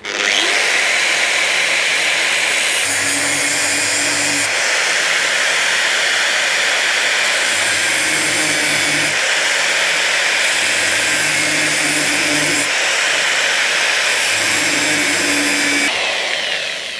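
Grinder with a cutting wheel running steadily as it slices through the welded steel seam of a motorcycle fuel tank, then spinning down near the end.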